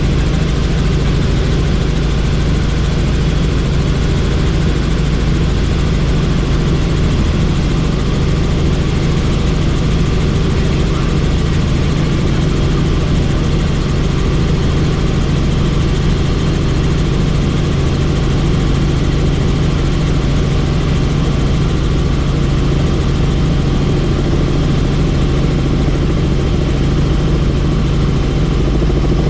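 Helicopter in flight, its rotor and engine making a loud, steady drone that does not change.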